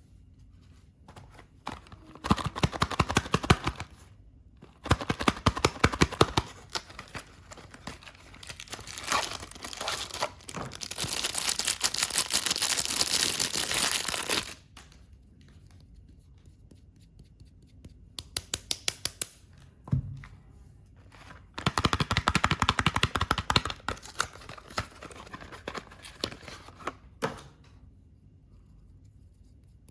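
Soap wrapping being opened by hand: bursts of crinkling and crackling packaging, with one steady tear of about four seconds in the middle.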